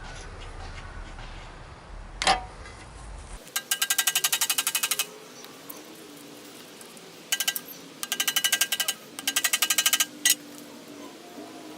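Rapid, evenly spaced ratcheting clicks in bursts of about a second each, several times over, from a tool working the screws of a bench grinder's housing. There is a single sharp click early on and another near the last burst.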